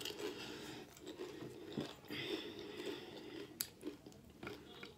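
Close-up chewing of a mouthful of chili-loaded tortilla-chip nachos: soft, wet mouth sounds with a couple of sharp crunchy clicks, about two seconds in and again near the four-second mark.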